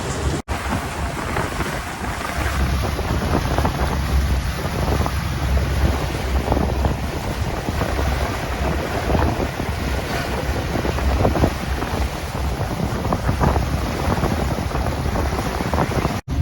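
Wind buffeting the microphone in irregular gusts over a low rumble and the rush of sea water aboard a moving boat.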